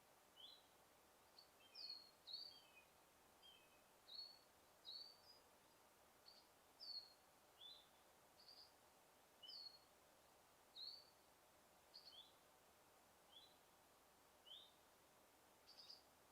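Small birds chirping: short, high chirps about once a second, some falling and some rising in pitch, over a faint steady hiss. A second, fainter and lower chirping joins in during the first few seconds.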